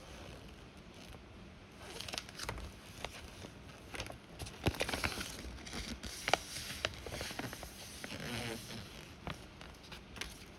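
A paper brochure and earbud packaging being handled: rustling with scattered sharp clicks and taps, starting about two seconds in.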